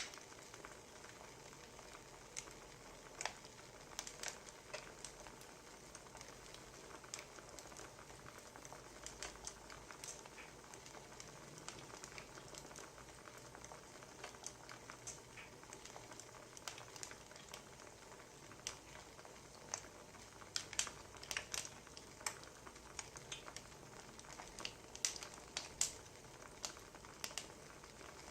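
Wood fire crackling: irregular small pops and snaps over a steady soft hiss, with the pops coming thicker in the last third.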